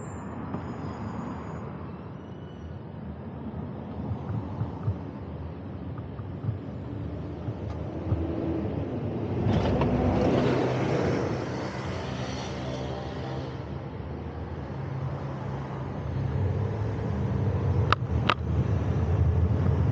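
Road traffic noise with a motor vehicle passing about halfway through, its engine swelling and then fading. A few sharp clicks come near the end.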